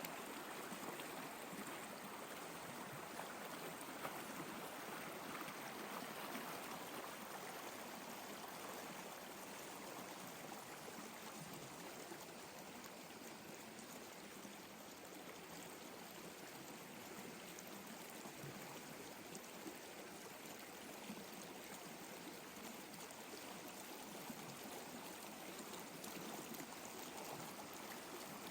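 Steady flowing water, like a running stream, with a few faint clicks.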